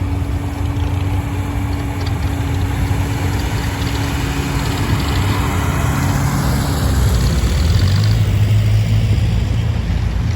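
Tractor engine running steadily, a low even hum that grows a little louder about eight seconds in.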